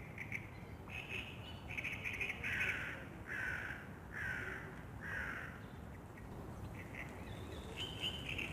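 A wild bird calling: a run of short chattering notes, then four loud, drawn calls a little under a second apart, each dipping slightly in pitch, over a steady low outdoor background.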